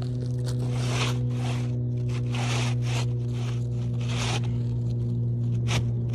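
Four rough scraping strokes in a row, each lasting about half a second, over a steady low hum, with a sharp click near the end.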